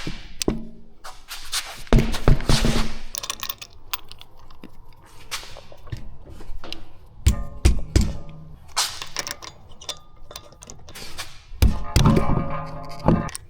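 Irregular knocks, thunks and metallic clatter of hand tools and parts being handled on a car during wheel removal, with several clusters of impacts and a brief ringing clank near the end.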